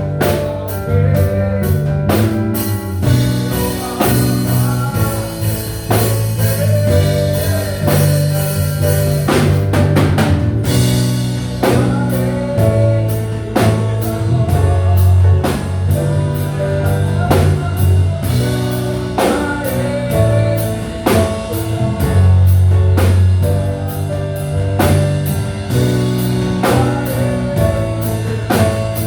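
Live rock band playing: drum kit keeping a steady beat, bass and guitar, with singing over it.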